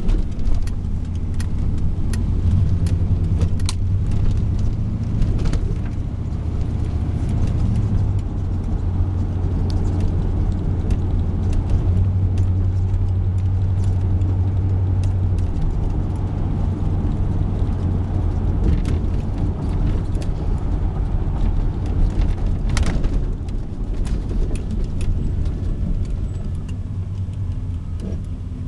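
1989 Chevrolet Silverado pickup truck driving, its engine running with a steady low drone. Light clicks and rattles come through now and then.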